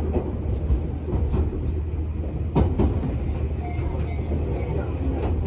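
JR 651 series electric train running, heard from inside the passenger car: a steady low rumble with occasional wheel clacks over the rails, the sharpest about two and a half seconds in.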